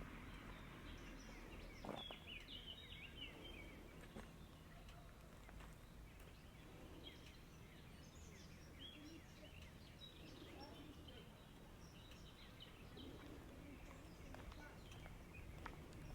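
Faint outdoor ambience with small birds chirping and twittering throughout, in many short, high calls.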